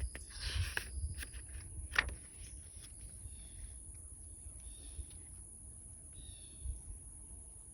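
Paper rustling as a sketchbook page is handled and turned, with a sharp tap about two seconds in. Crickets drone steadily and birds chirp faintly.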